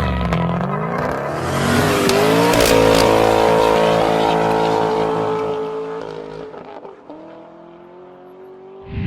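Chevy Colorado V6 engine running through a custom split dual performance exhaust, revving up in pitch and then fading away.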